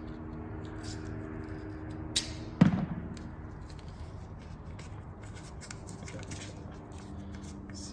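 Light workbench handling noises: scattered small clicks and one short thump about two and a half seconds in, over a steady low hum.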